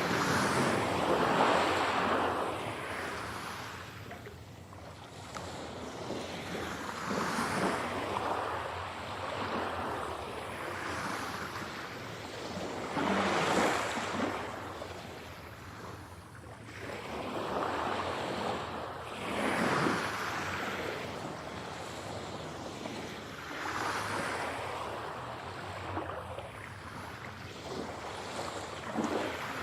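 Sea waves breaking and washing in and out, each swell rising and falling away about every five to six seconds, in an 8D mix that pans the sound around the listener.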